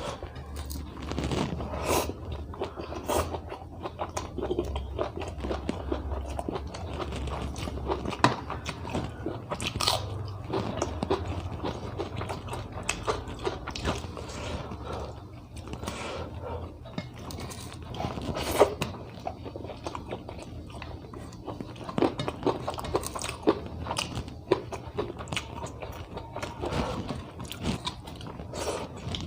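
A person eating close to the microphone: irregular chewing with crunches and sharp biting clicks, over a faint steady low hum.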